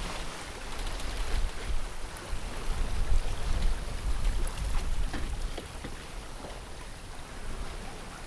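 Water rushing and splashing along a sailboat's hull while under sail, over a low, surging rumble.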